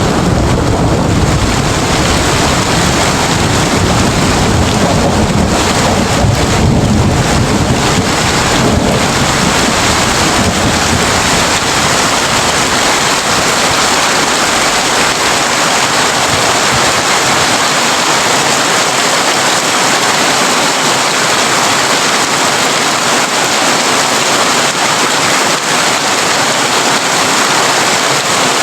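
Heavy rain drumming steadily on a tin roof, a dense, unbroken hiss. A low thunder rumble sits under it for the first several seconds and dies away.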